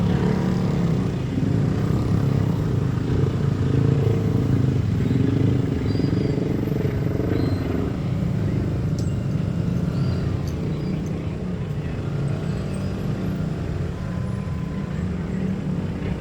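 Train rolling past with a steady low rumble that gradually fades over the second half; no horn is sounding.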